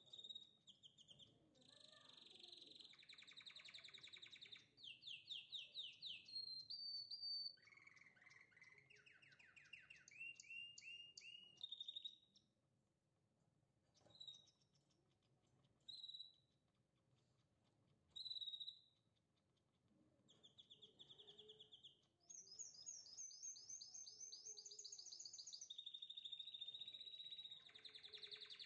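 A songbird singing a long, varied song of trills and quick runs of repeated notes. The song thins to a few single chirps in the middle, then picks up again into fast trills.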